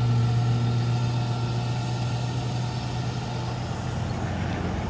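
A car engine running with a steady low drone, fading gradually over the last second or so.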